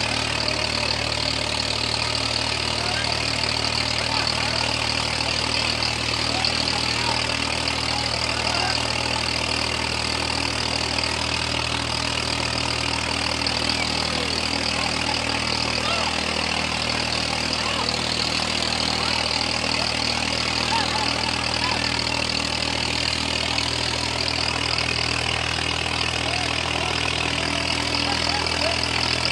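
Swaraj 855 tractor's three-cylinder diesel engine running steadily at one constant speed, with no revving.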